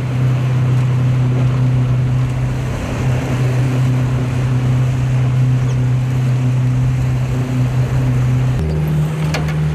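Engine running steadily with a low drone over rushing wind or water noise, its pitch stepping up a little near the end as the engine speeds up.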